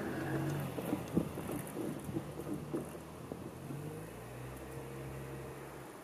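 Electric commuter train running away over the tracks, its wheels clicking and knocking over rail joints and points above a low running hum that fades as it recedes.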